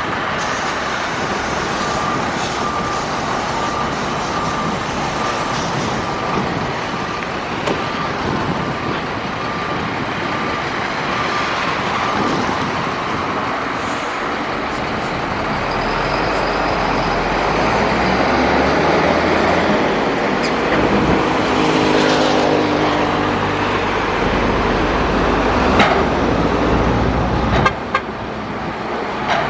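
Heavy earthmoving machines at work: diesel engines running with a constant clatter and rumble. A faint, evenly repeating high tone sounds through the first part. About halfway through, a deep engine note grows louder and its pitch rises and falls as it works under load. A couple of sharp knocks come near the end.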